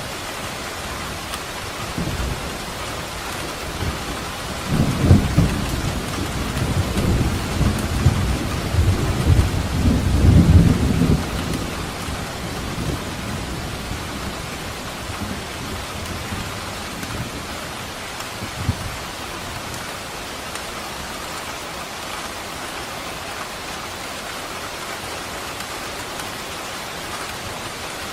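Steady rain falling, with a long low rumble of thunder that builds a few seconds in, is loudest in the first half, and dies away, leaving the even rain.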